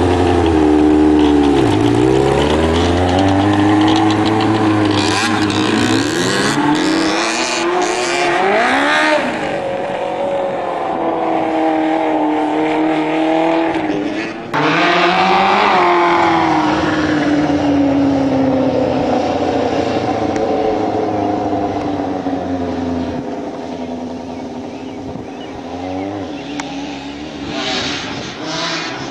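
Go-kart powered by a Honda CBR 600 inline-four motorcycle engine, running hard: the engine note climbs and falls again and again as it accelerates and slows, with a sudden jump in loudness about halfway through.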